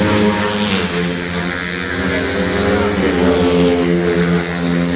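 Cub Prix underbone racing motorcycle engines running at high revs. The pitch drops about a second in, falls again around three seconds in, then climbs.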